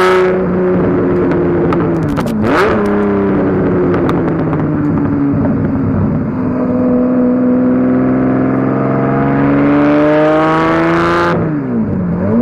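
Lamborghini Murciélago V12 with a decatted Larini exhaust, accelerating through the gears: the revs dip and recover about two and a half seconds in with a few sharp cracks, sag, then climb steadily to a harsh, high-pitched peak before dropping sharply at a gear change near the end.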